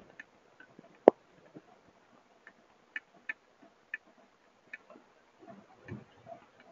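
Heavy rain with raindrops striking the Wyze security camera and the surfaces close to it: irregular sharp ticks over a faint hiss, with one much louder click about a second in.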